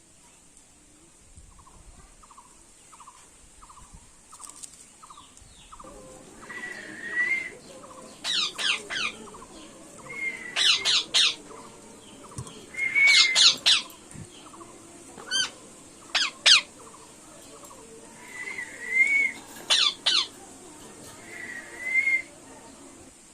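Indian ringneck parrot squawking: loud, harsh calls in short clusters, with shorter rising-and-falling calls in between. Before the squawks begin, a soft chirp repeats about twice a second.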